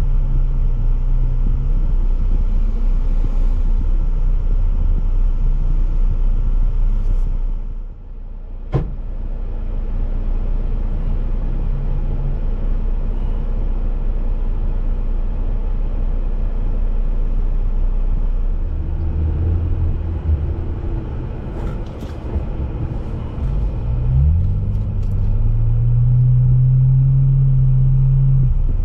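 Jeep engine running and driving over a steady low rumble, its pitch rising and falling with the throttle. There is a sharp knock about nine seconds in. Near the end the engine revs up and holds a steady higher pitch.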